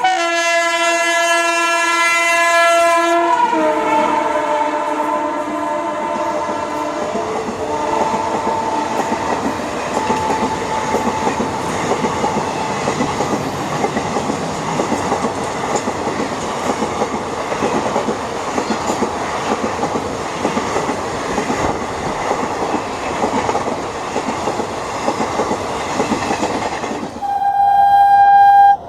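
WAP-7 electric locomotive's horn sounding as it approaches. Its pitch drops about three seconds in as it passes, and it fades over the next several seconds. The express's coaches then roll past with a steady rumble and wheel clatter, and a horn sounds again briefly near the end.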